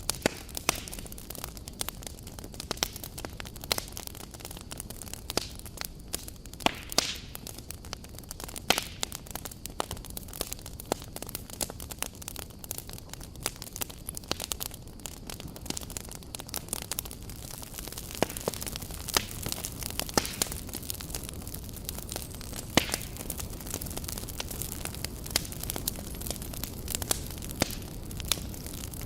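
Wood campfire burning steadily, with irregular sharp crackles and pops over a low, continuous rushing of the flames.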